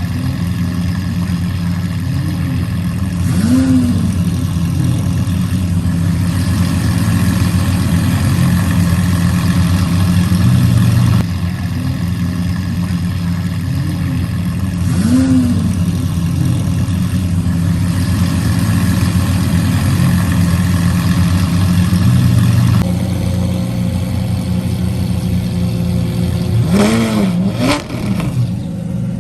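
Car engine idling, with short revs where the pitch rises and falls back, about three times; the last comes as two quick revs in a row near the end.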